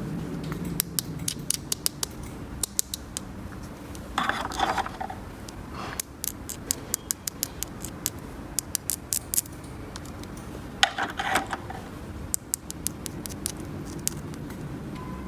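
Small plastic toy pieces being handled, giving many sharp light clicks and taps, with two short clusters of rattling, about four seconds in and again about eleven seconds in.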